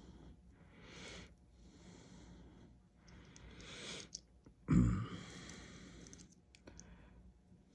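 Handling noise from working a small plastic action figure apart by hand: soft rustles and light clicks, with one loud thump a little under five seconds in.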